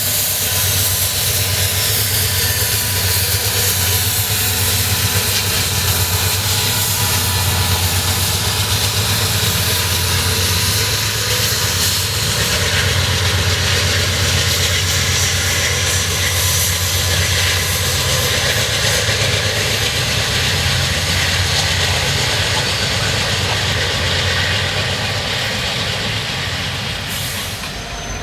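Norfolk Southern diesel freight train running close by: a steady low diesel drone with wheel and rail noise over it.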